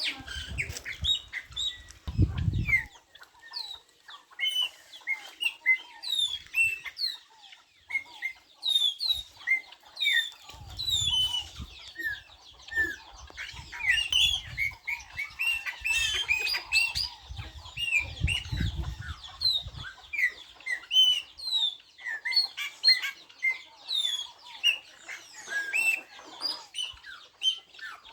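Many birds chirping together in a dense, continuous chorus of short high chirps, with a few low rumbles underneath around two seconds in and again in the middle.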